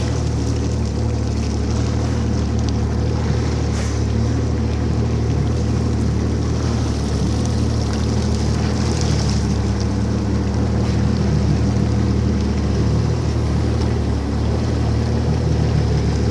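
Jet ski engine running steadily, with a hiss of water spray and rushing water over it.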